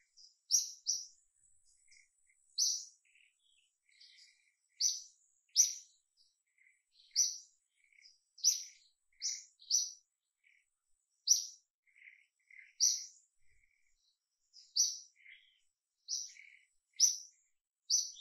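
Small birds chirping: sharp, high, short chirps repeating irregularly about once a second, with softer, lower single notes in between.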